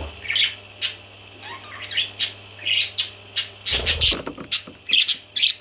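Baby parrots calling in short, repeated chirps, two or three a second, more tightly packed in the second half.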